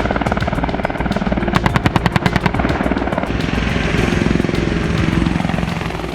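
AH-64 Apache's M230 30mm chain gun firing a rapid burst at about ten rounds a second, lasting roughly the first two and a half seconds. The helicopter's rotor and turbine noise runs on steadily under it and fades out near the end.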